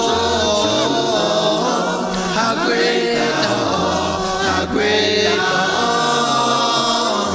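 A man singing a cappella gospel, with long held notes that slide in pitch and no clear words.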